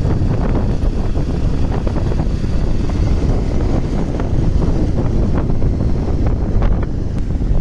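Wind buffeting the microphone: a loud, steady low rumble with a few faint crackles above it.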